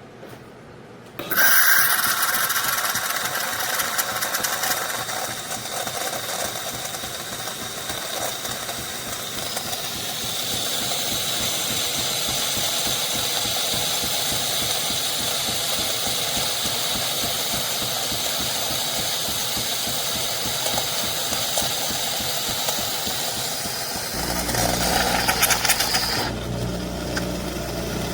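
Philips 3200 Series fully automatic espresso machine running through a cycle. It starts abruptly about a second in, whirs and hisses steadily for about 25 seconds, adds a low buzz near the end, then stops.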